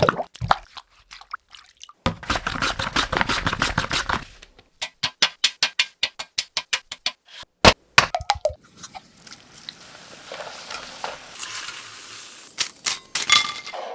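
Tapioca chips being prepared: a quick run of crisp strokes, then evenly spaced strokes at about three to four a second. After that comes a fainter steady hiss, like chips frying in oil.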